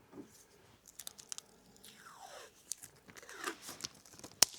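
Clear adhesive tape being handled: pulled off the roll, torn and pressed down, with crinkling and scattered small clicks and one sharp click near the end.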